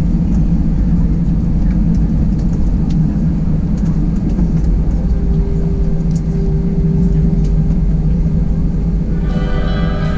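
Airbus A320 cabin noise: a steady low rumble of engines and airflow, with a steady hum joining about halfway through. Music comes in near the end.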